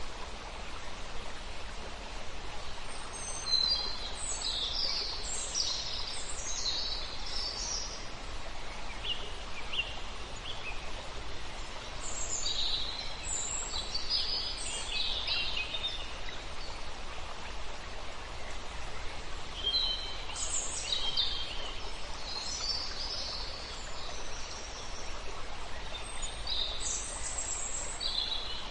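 Several songbirds singing in clusters of short high chirps and trills, over the steady rush of a river.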